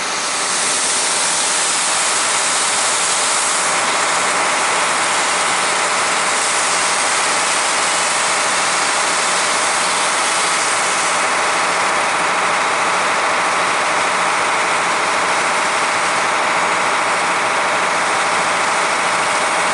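1977 International fire engine's engine running its fire pump at about 75 psi, with a steady rushing hiss over the engine note. The noise builds over the first second, then holds level.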